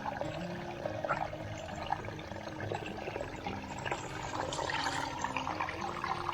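Running water trickling and splashing, a steady crackle of small splashes.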